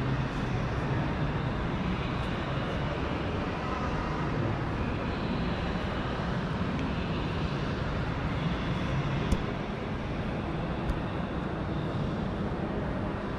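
Steady low vehicle rumble, with two brief sharp clicks about nine and eleven seconds in.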